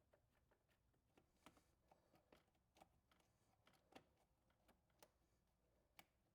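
Near silence with faint, irregular clicks and taps of plastic throttle-cable adjusters being worked against their metal bracket.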